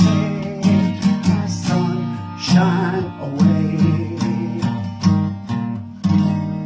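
Acoustic guitar strumming and picking chords with no singing. A final chord near the end rings out and fades.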